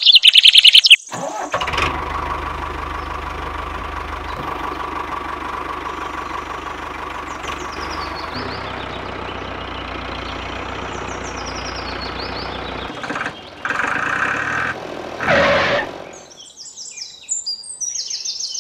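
Tractor engine started: rapid loud clicking for about a second, then the engine catches and runs steadily. Near the end it changes and stops, and birds chirp after it.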